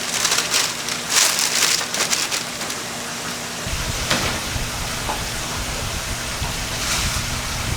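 Kkwabaegi dough deep-frying in hot oil: a steady crackling sizzle, with a low rumble joining about halfway through.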